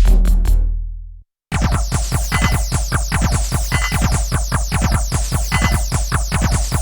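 Electronic drum pattern from a Nord Drum 3P percussion synthesizer playing bank B presets. One groove fades out about a second in, and after a short silence a new groove starts: a fast, even run of hits that each drop in pitch, with a higher ringing accent about every second and a half.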